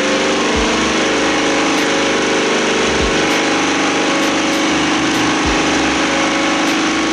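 Kohler engine of a Vermeer trencher running at a steady speed, warming its oil before an oil change.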